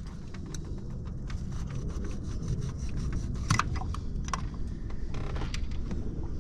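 Scattered light metallic clicks and scrapes of hand work on a diesel engine as a loosened fuel injector is worked out of its bore, with a couple of sharper clicks midway, over a steady low rumble.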